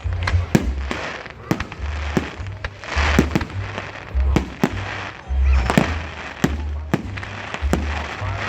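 Fireworks exploding in a display: a string of sharp bangs, about one or two a second, with crackling bursts between them. Music with a heavy bass beat plays underneath.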